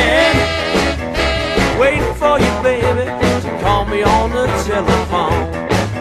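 Blues band playing an instrumental break: a lead line bending its notes over a steady bass and drum beat.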